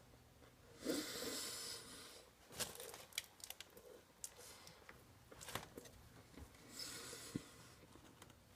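A person chewing a mouthful of food, with scattered faint wet mouth clicks and a heavy breath through the nose about a second in.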